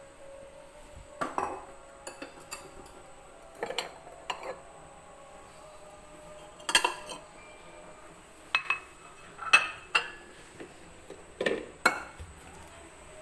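Kitchenware being handled: cutlery and dishes clinking and knocking against each other in a dozen or so separate short strikes at irregular intervals.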